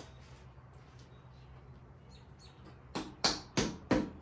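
A faint low hum at first, then from about three seconds in, sharp knocks at about three a second: a hammer striking the intake manifold of a small-block Chrysler 360 Magnum V8 to break it loose from the engine.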